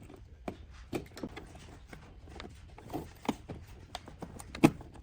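Irregular clicks and knocks of parts and tools being handled, the loudest knock a little before the end.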